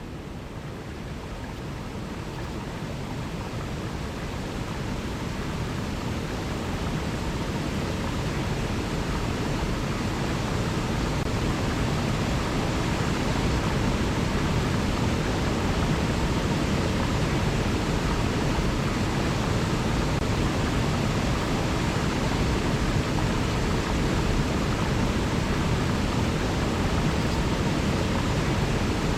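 River water rushing steadily, fading in over about the first ten seconds and then holding level.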